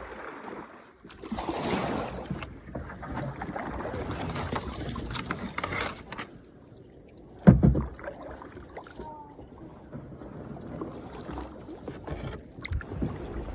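A kayak moving through a shallow creek: several seconds of noisy water rushing at the hull, then a single loud knock of the boat or paddle hitting something hard, followed by fainter water noise with a few small knocks.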